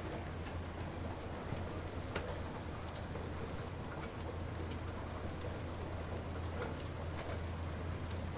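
Light rain falling steadily, with scattered single drops ticking on a surface, over a steady low rumble.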